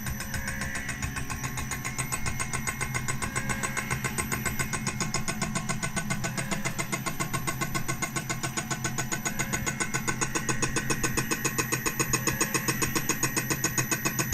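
Milling machine running with a steady low hum and a high whine, pulsing evenly several times a second, growing slightly louder.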